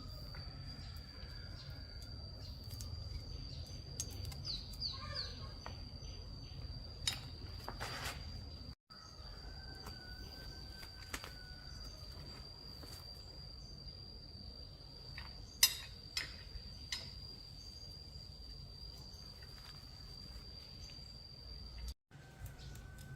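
Low steady background hum with a thin high whine, broken by a few light clicks and knocks, the sharpest about two-thirds of the way through, and a brief run of bird chirps near the start.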